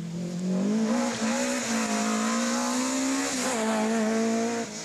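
Rally car engine at high revs, its pitch climbing steadily for about three seconds, dipping briefly, then holding. The sound cuts off abruptly near the end.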